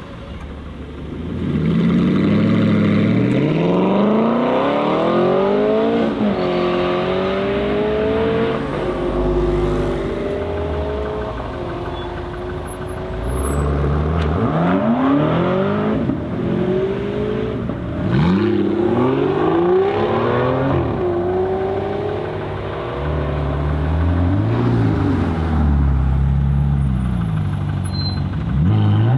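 Sports car engines accelerating hard. The revs climb and drop back at each gear change, several times over.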